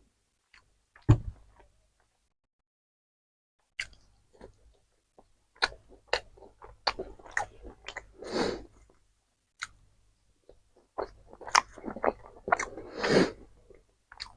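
A person chewing food from a KFC meal close to the microphone: irregular short wet clicks and smacks, with two longer, louder bursts, one in the middle and one near the end.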